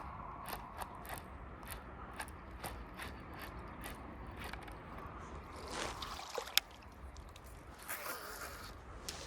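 Fishing reel being cranked during a lure retrieve, a regular ticking of about two clicks a second, with a couple of brief rushes of noise and one sharp click about two-thirds of the way through.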